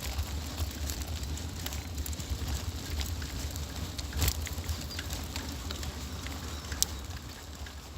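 Riding noise picked up by a phone clipped to a bicycle's handlebars: a steady low wind rumble with scattered clicks and rattles from bumps, the sharpest about four seconds in and again near seven.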